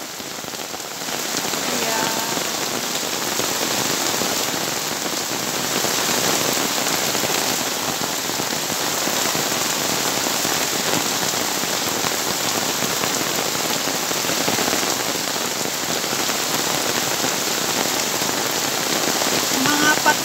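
Heavy rain pouring steadily onto a paved yard, parked car roofs and a tarp awning, a little softer in the first second.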